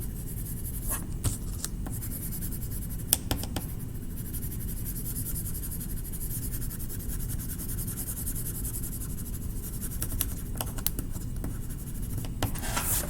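Colouring tool scratching steadily across paper as an area is shaded in, with a few light clicks.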